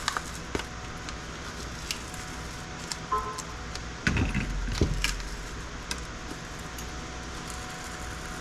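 Hand work on a scrap circuit board as a part is pried and pulled off it: scattered sharp clicks and ticks of metal and board, with a louder scraping, crunching stretch of about a second about four seconds in. A steady low hum runs underneath.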